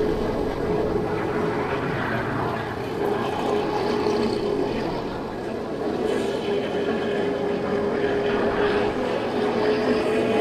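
50cc scooter engine running at a steady speed on the road, one constant engine tone held throughout over a rush of road and traffic noise.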